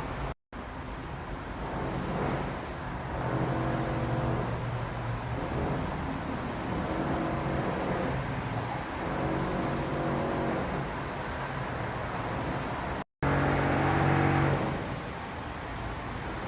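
Motor vehicle engines running and passing, their hum swelling and fading several times over steady background noise. The sound cuts out completely twice, briefly.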